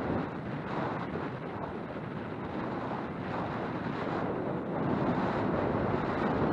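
Wind rushing over a helmet-mounted camera's microphone during a mountain bike ride, over the rumble of the bike rolling along a dirt trail. It gets louder about five seconds in.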